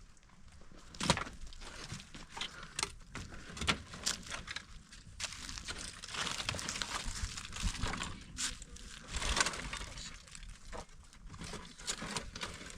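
A string of irregular cracks and knocks over rustling, busiest in the middle of the stretch.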